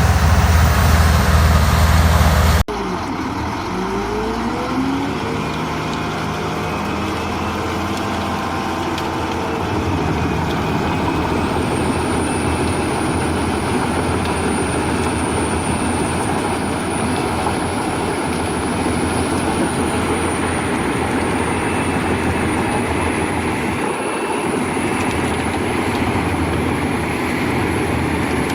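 Large industrial wood chipper at work, its diesel engine running under load. About two and a half seconds in, the deep engine hum gives way abruptly to a dense grinding and shredding noise. Pitch glides fall briefly after the change, and a steady high whine joins in from about twelve seconds on.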